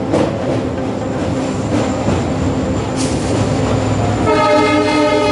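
A train running over a steel truss bridge: steady rumble and clatter of wheels on the rails, with a few sharp clicks. About four seconds in, a train horn sounds and is held for over a second.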